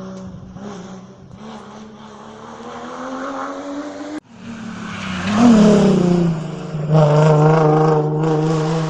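Rally car engine climbing in revs under acceleration, breaking off abruptly about four seconds in. A louder rally car engine follows: its revs drop sharply, then it runs steady at high revs.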